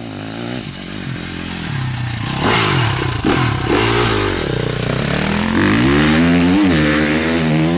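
Dirt bike engine revving hard, its pitch climbing and falling again and again with the throttle, growing louder through the middle and easing off near the end.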